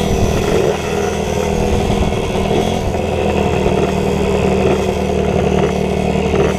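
Pit bike engines running, with steady idling and revs rising and falling.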